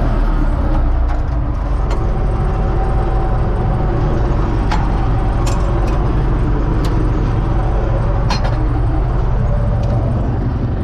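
U650 tractor's diesel engine running steadily under work, a loud low drone, with a few short sharp clicks or knocks from the machinery in the middle.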